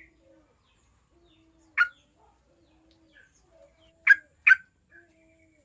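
Yellow-vented bulbul giving three short, sharp calls: one about two seconds in and a quick pair near the end. Faint, low, repeated notes sound underneath.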